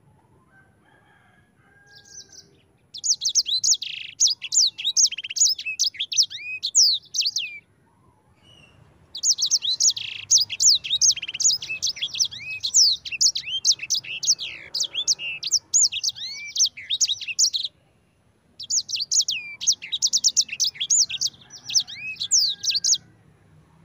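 A sanger songbird singing in rapid, high rolling trills and chirps (the fast "ngerol" song), in three long bouts separated by short pauses.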